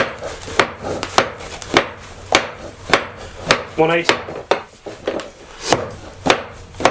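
Steady, evenly spaced hammer blows on a hot bog iron bloom, about one every half second and a dozen in all, as the bloom is forged to consolidate and refine the iron.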